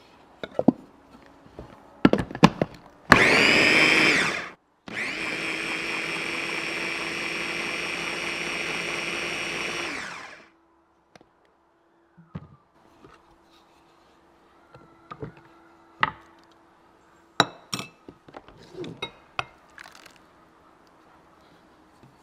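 A small electric kitchen appliance motor runs twice. The first is a short, loud burst about three seconds in, spinning up in pitch. After a brief pause comes a steady run of about five seconds that winds down and stops. Scattered clicks and knocks of kitchenware come before and after.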